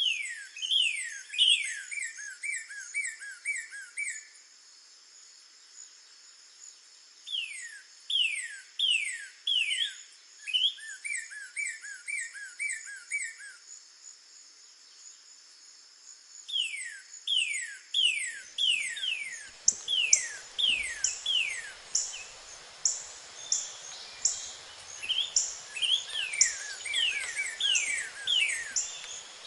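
Northern cardinal singing: phrases of loud, steeply downslurred whistles followed by a run of quicker, shorter notes, repeated three or four times with pauses between. A steady high insect trill runs underneath, and about two-thirds in a rustling background and a rapid high chipping join.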